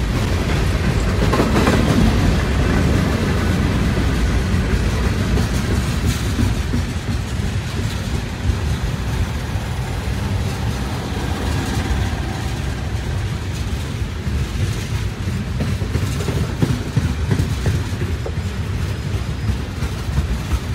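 Florida East Coast Railway freight train's cars rolling steadily past at close range, with steel wheels clicking over the rail as covered hoppers and refrigerated boxcars go by.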